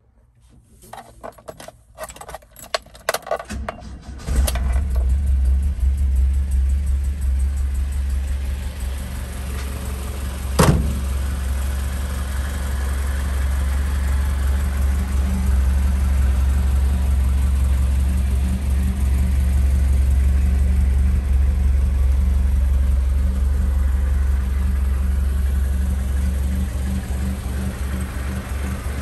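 Classic Alfa Romeo engine cold-started: the starter cranks unevenly for about four seconds, then the engine catches and settles into a steady idle. One sharp knock comes about ten and a half seconds in.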